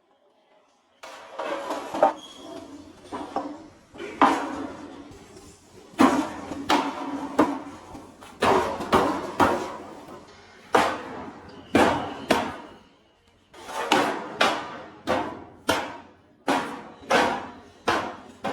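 Hammer blows, struck irregularly about one or two a second, each with a brief ringing decay.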